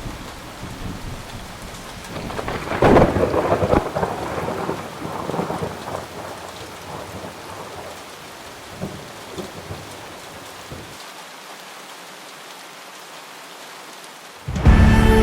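Thunderstorm: steady heavy rain with a loud thunderclap about three seconds in that rolls on as rumbling, and fainter rumbles later. Music comes in just at the end.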